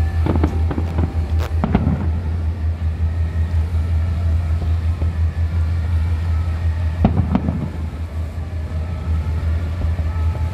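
Firework bangs, several in the first two seconds and another about seven seconds in, over the steady low drone of a river cruise ship's engine.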